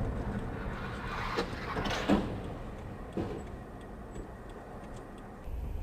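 Road and engine noise of a car heard from a dashcam, with a few short knocks, the sharpest about two seconds in. Near the end the low rumble steps up abruptly.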